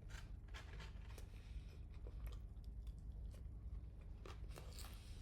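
A person chewing and biting crunchy fast food close to the microphone, with scattered soft crunches and crackles over a steady low hum.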